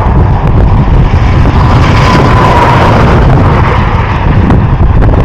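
Loud, steady vehicle rumble with wind buffeting the microphone.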